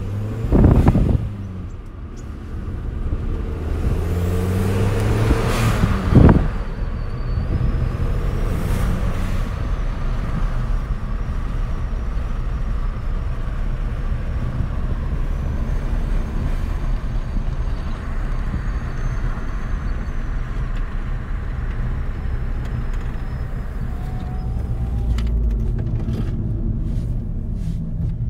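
Volkswagen New Beetle's 1.8-litre turbocharged four-cylinder heard from inside the cabin, revving up under acceleration. The turbo's blow-off valve lets off short bursts when the throttle closes, about six seconds in and again near nine seconds. After that the car settles to a steady cruise with engine and road noise.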